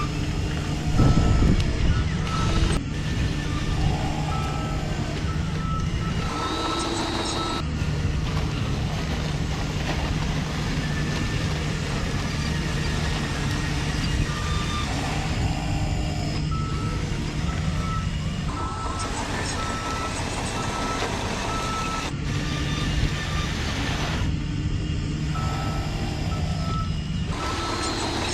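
Reversing beeper of a radio-controlled construction truck, beeping in short evenly spaced pulses that start and stop several times, over the steady hum of its motor.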